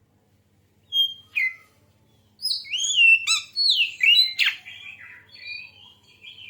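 Oriental magpie-robin singing: two short notes about a second in, then a fast run of varied whistled notes sliding up and down.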